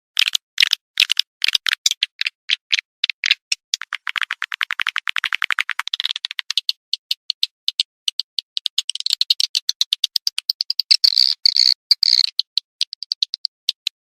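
Swiftlet calls played as a lure: a rapid series of sharp, high-pitched clicking chirps, breaking about four seconds in into a fast buzzing trill that lasts about two seconds, then denser twittering chirps later on.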